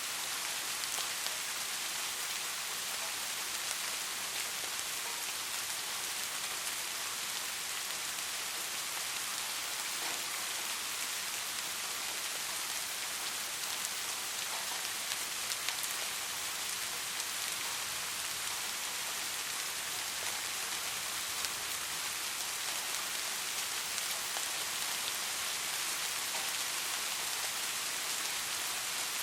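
Steady soft rain falling, a continuous hiss with scattered patters of individual drops.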